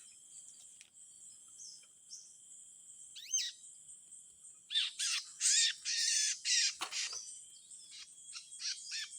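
Small birds chirping against a steady thin high-pitched tone. A single call comes about three seconds in, then a loud flurry of rapid chirps about five seconds in. Near the end a run of evenly repeated short chirps, about three a second, begins.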